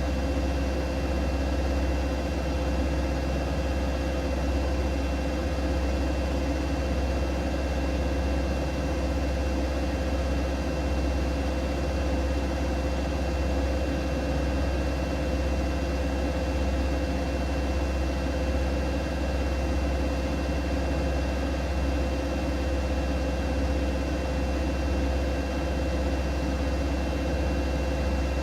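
Siemens Siwamat iQ 716 front-loading washing machine running steadily: a continuous low hum with a faint high whine above it and no pauses.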